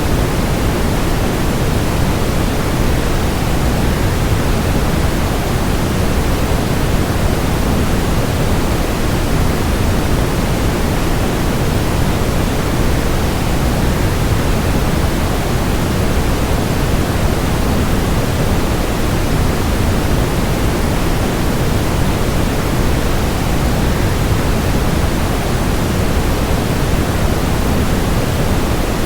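Waterfall rushing in a steady, unchanging hiss that is heavier in the low end, used as sleep noise.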